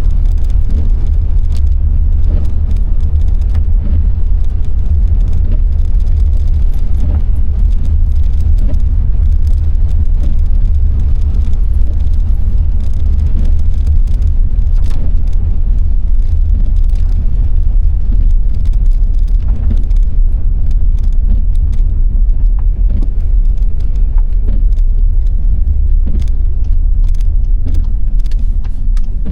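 A car driving on a wet road: a steady, heavy low rumble of engine and tyres, with many scattered light ticks of rain hitting the car.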